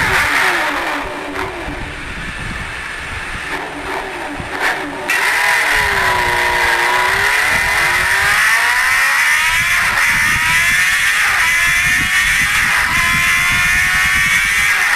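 Motorcycle engine pulling while riding. Its pitch dips about six seconds in, then rises steadily as it accelerates, with wind buffeting the microphone.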